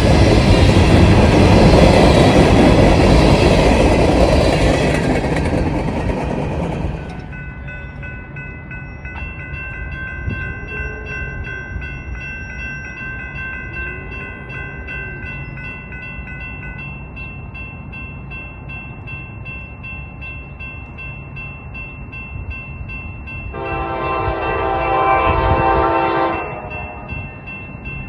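A freight train rolling past close by, with loud rumble and wheel noise, cuts off suddenly about seven seconds in. Near the end a diesel locomotive horn sounds one blast of about three seconds.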